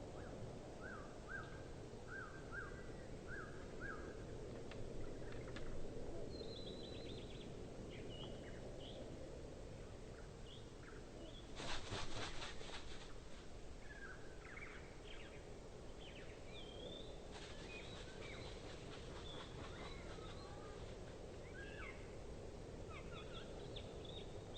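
Tūī calling in a varied run of short chirps, whistles and clicks over a steady outdoor background hiss. About halfway through, a brief burst of rapid beats is the loudest moment.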